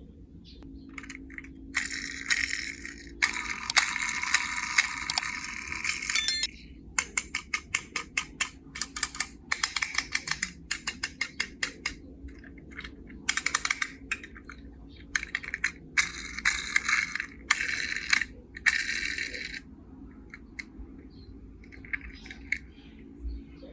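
Small die-cast toy cars clicking and rattling against their carry case as they are handled, in dense runs of quick clicks broken by short pauses.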